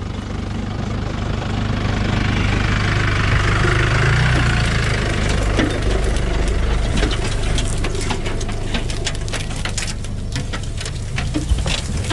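A vehicle engine running with a steady low hum. From about halfway in, many short sharp clicks and crackles come over it.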